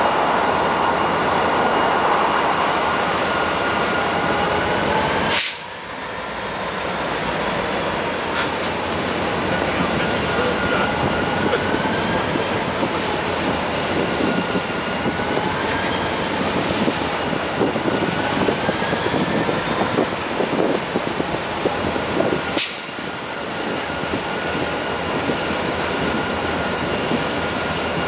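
Loaded ore hopper cars rolling past with a steady high wheel squeal that wavers slowly in pitch, over the rumble and rattle of the cars, with clicks and clunks thickest in the second half.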